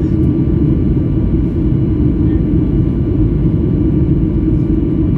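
Boeing 737 jet airliner's engines and airflow, a loud steady low rumble with faint, even whining tones above it.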